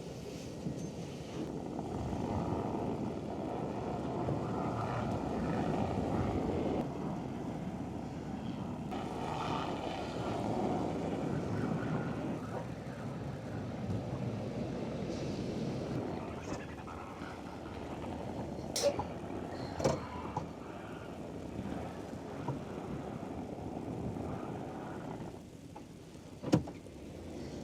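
Pickup truck engine running as the truck is driven and turned around, swelling and easing over the first dozen seconds. A few sharp clicks come later, and a knock near the end.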